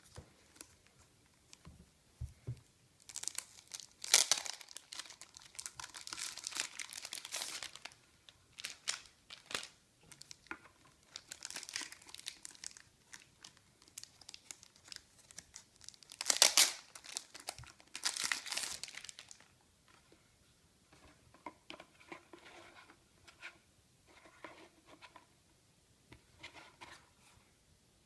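Crinkling and tearing rustles, as of wrapping or packaging being handled, in several bursts of a few seconds each. Softer scattered clicks and rustles follow.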